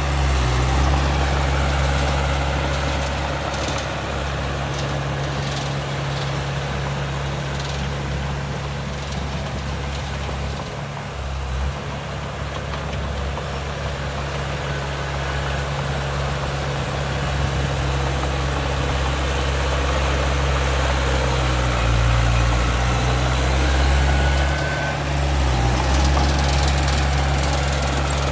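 Heavy diesel engine of earthmoving machinery running steadily with a deep drone, briefly quieter midway and louder again near the end, with a few faint knocks.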